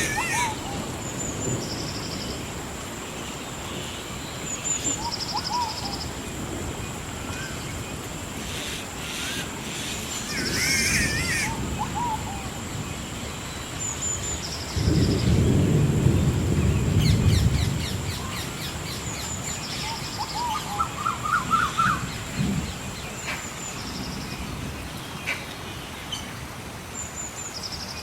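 Several songbirds chirping and trilling in short repeated phrases over a soft, steady rain hiss. A low rumble swells for a few seconds about halfway through.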